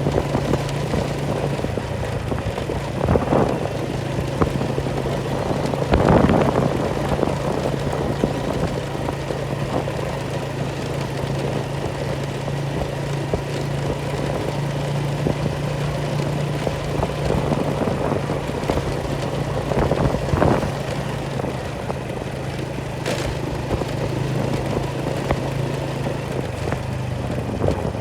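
An engine running steadily at a constant pitch, with a few brief louder surges of noise. The hum drops out just before the end.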